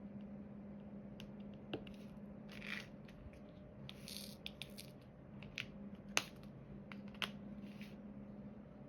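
Small scattered clicks and brief rattles of diamond painting work: resin drills and the drill pen tapping and shifting on the tray and canvas, one click sharper than the rest a little past the middle. A faint steady hum lies underneath.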